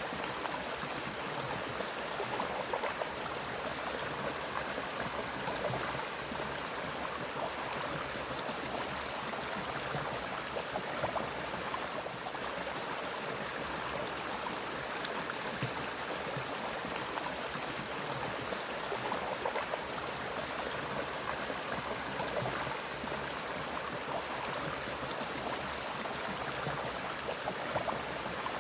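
Forest stream flowing, with a steady rush and small gurgles. A steady high-pitched whine sits over the water.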